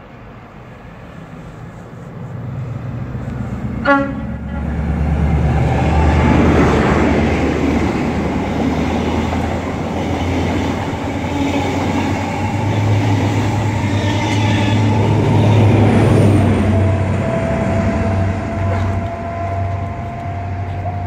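A train passing through the station, giving a short horn toot about four seconds in, followed by a heavy, sustained engine and wheel rumble. A faint tone rises slowly in pitch near the end.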